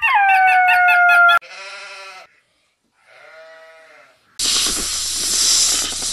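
A goat bleating: one loud, quavering call that drops in pitch, followed by two fainter calls. About four seconds in, a loud, steady hissing rattle begins.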